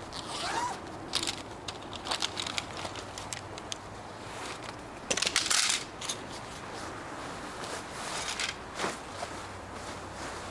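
Irregular crunching and rustling, with a cluster of louder crunches about halfway through.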